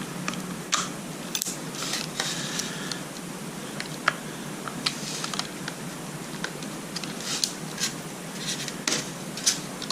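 Small metal clicks, taps and light scrapes, scattered and irregular, of hands handling and seating parts in an engine distributor while fitting new contact points and a condenser.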